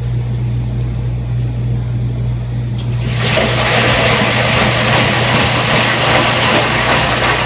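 Front-load washing machine running with a steady low hum; about three seconds in, a loud, even rushing noise starts and continues.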